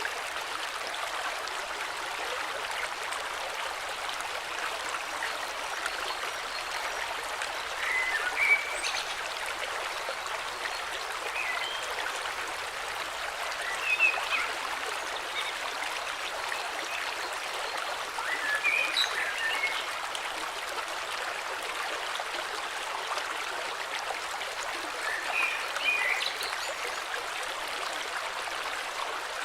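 A flowing river with a steady rush of water, and short bird chirps over it about five times.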